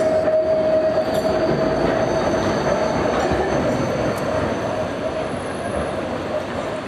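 A rail vehicle running, with a steady squeal of wheels on rails over a rumbling noise; the squeal fades away a little past the middle and the whole sound eases off.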